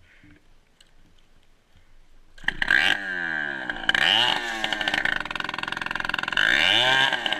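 Dirt bike engine revving hard, starting about two seconds in, its pitch rising and falling repeatedly.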